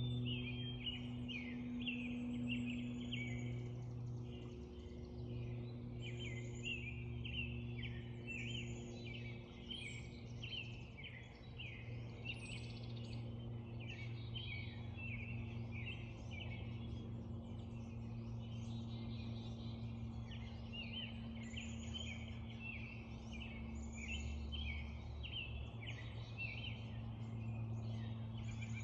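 Spring dawn chorus: many birds chirping and calling at once, over a steady low hum.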